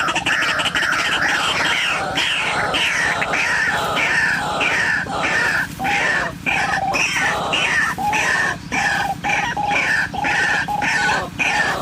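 White-breasted waterhen calls: a rapid, steadily repeated series of harsh, falling notes, about three a second, with a lower note joining in from about halfway.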